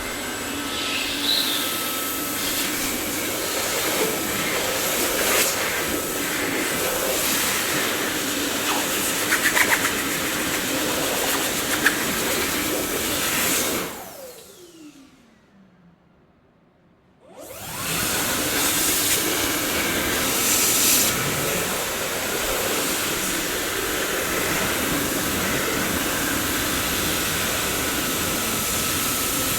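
Dyson vacuum cleaner running with a steady rushing noise and a few light knocks. About halfway through it switches off: the motor's whine falls away and it goes nearly quiet for about three seconds. Then it starts up again and runs steadily.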